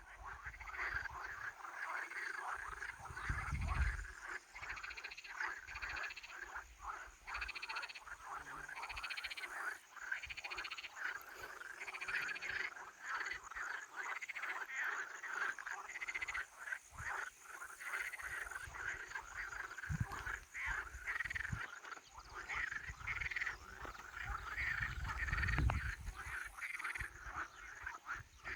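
A chorus of many frogs calling at once, a dense, unbroken mass of overlapping pulsed calls. A low rumble comes in about four seconds in and again in the last few seconds.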